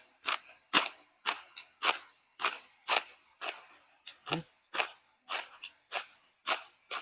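A person chewing crunchy food, crisp crunches at a steady rate of about two a second.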